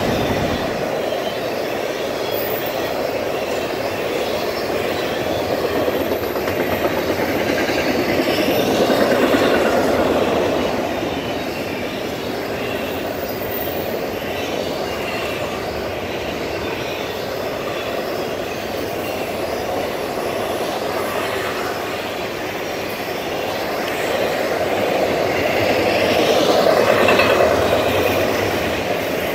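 A train rolling past on the rails, a steady rumble of wheels and cars that swells louder twice, about a third of the way in and again near the end.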